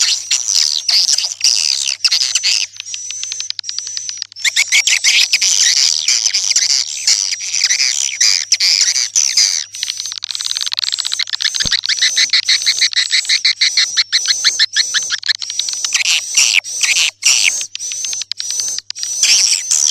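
Swiftlets twittering: a dense, rapid, high-pitched chatter of chirps. This is a swiftlet lure recording, the calling sound played to draw swiftlets into a nesting house.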